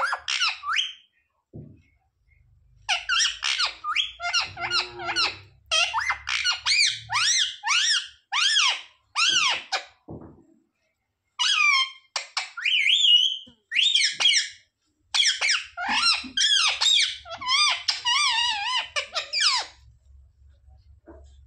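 Pet parrot calling in rapid series of high, squeaky chirps and squawks that bend in pitch, in several bouts with short pauses between them.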